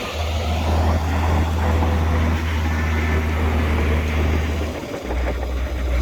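Heavy diesel engine of earthmoving machinery running with a deep, steady drone that dips briefly about five seconds in.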